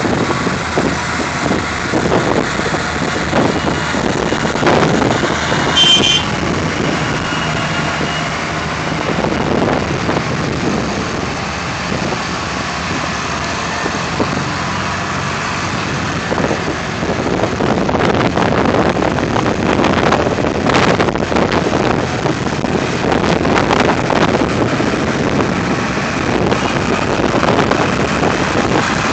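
Vintage tractor engines running loudly as a line of tractors drives past, with a brief high tone about six seconds in.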